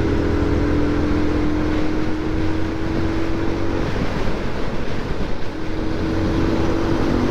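Motorcycle engine running at a steady speed under heavy wind rush on the microphone while riding. Its steady drone fades after about four seconds and returns near the end.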